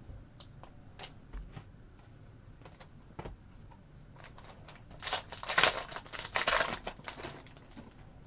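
Trading cards being flipped and handled: scattered light clicks and flicks of card stock, with a denser flurry of rustling and sliding cards a little past halfway through.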